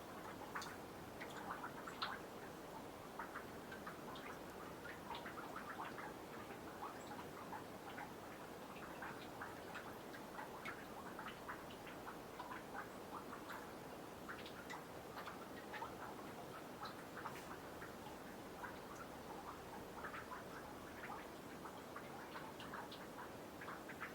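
Meltwater from snow on a boardwalk dripping into a nearly frozen pond: a faint, constant patter of many small irregular drips.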